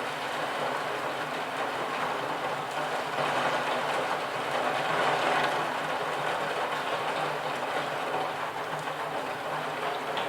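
Steady rain falling, a dense even hiss that swells a little in the middle, with a faint low hum beneath.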